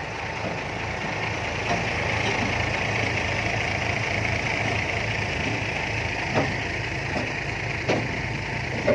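Heavy diesel engine of earthmoving machinery running steadily, with a few short knocks in the last few seconds.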